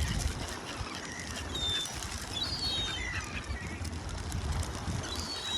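Seagulls calling: short high squeals and cries scattered through, over a steady low rumble.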